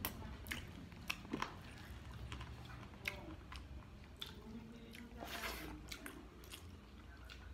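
A person chewing a mouthful of rice close to the microphone, with many small wet mouth clicks.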